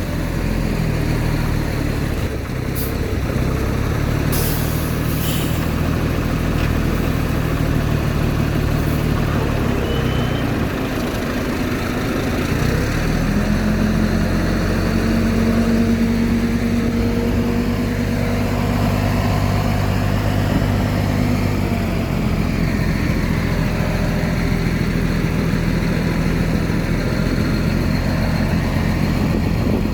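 Heavy diesel engine of earthmoving machinery running steadily. Its note dips about ten seconds in, then comes back higher and holds from about thirteen seconds on. A few brief high clicks or squeaks come a few seconds in.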